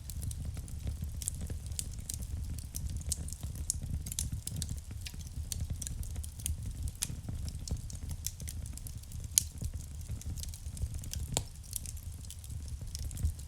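Wood fire burning in a fireplace: irregular crackles and snaps over a steady low rumble of the flames, with one louder pop about nine and a half seconds in.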